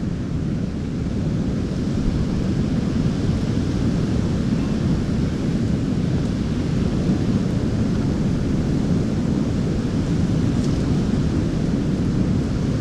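Strong wind buffeting the microphone: a steady, dense low rumble with no breaks.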